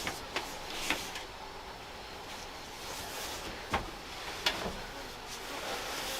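A few short, sharp knocks or snaps, the strongest about a second in and near the middle, over a steady hiss of background noise.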